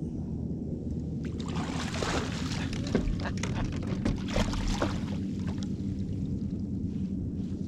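Water splashing and dripping for about four seconds in the middle, over a steady low rumble.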